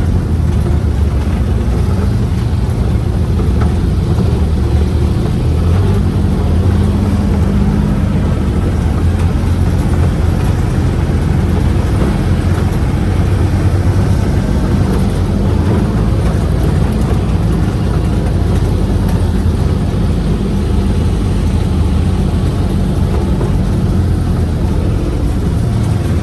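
Four-seat UTV's engine running steadily under way, a constant low drone heard from on board.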